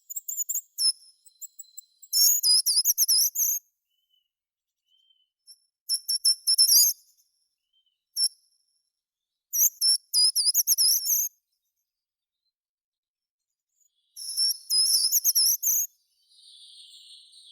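A songbird singing in short, very high-pitched warbling phrases, five of them, each a second or two long with pauses between. A faint hiss comes in near the end.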